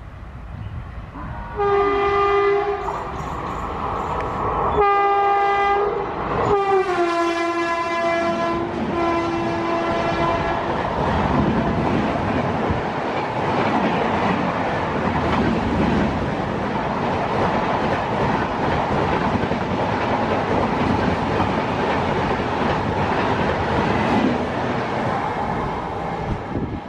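Express train locomotive sounding its horn three times, the third blast long and dropping in pitch as the locomotive passes. The coaches then rush past with a steady rumble and wheel clatter on the rails that lasts most of the remaining time.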